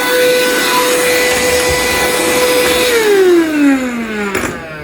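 Cheap cordless handheld mattress vacuum cleaner running with a steady high motor whine and rushing air. About three seconds in it is switched off, and the whine falls steadily in pitch as the motor spins down, ending with a click near the end.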